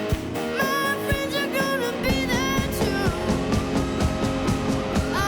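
Live rock music from a young band: drums and guitar with a boy's voice singing. The drumbeat gets busier about two seconds in.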